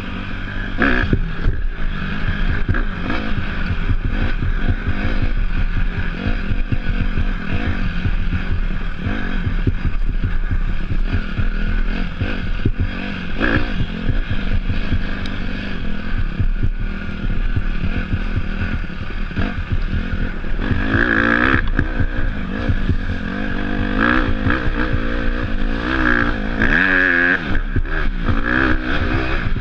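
Dirt bike engine running while riding off-road, its revs rising and falling, with more pronounced revving in the last third. Frequent short knocks and clatter run through it.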